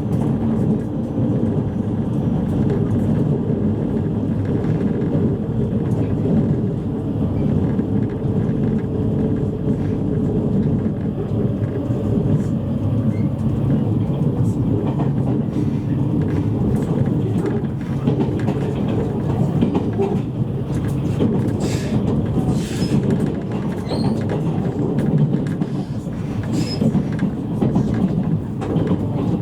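Interior running noise of a JR East E653 series electric train: a steady low rumble with a faint steady hum, and scattered sharp clicks from the wheels and rails in the second half.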